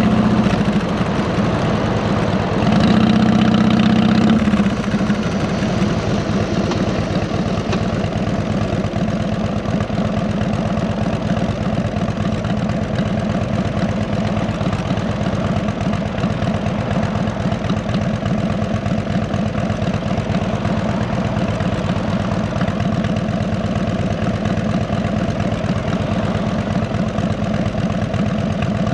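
2008 Harley-Davidson Electra Glide Ultra Classic's V-twin running steadily through 33-inch fishtail exhausts. It gets louder for a second or two near the start, then settles.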